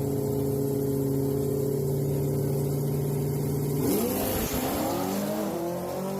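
Drag racing car engines held at steady high revs on the start line, then launching about four seconds in with a sudden burst of noise and engine pitch climbing as they pull away.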